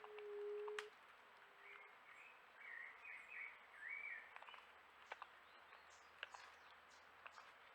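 Wild birds calling in forest, faintly. A low, steady hooting note opens, with a shorter one a second later. Then a warbling chirpy call in the middle and scattered sharp clicks.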